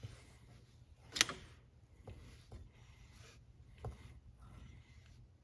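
A few light clicks and knocks from handling tools and materials by hand, the sharpest about a second in and another near four seconds, over a low steady hum.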